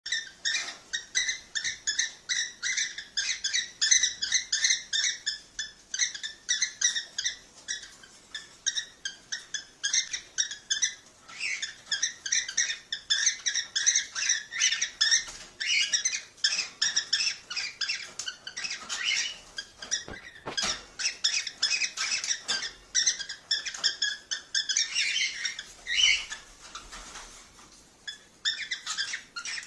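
Cockatiels chattering in a fast run of short, high chirps, several a second, easing off briefly near the end before picking up again.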